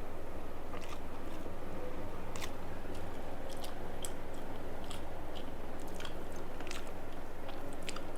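Close-miked chewing and biting of rice and fried food, with irregular crisp crunches a few times a second, over a steady low hum.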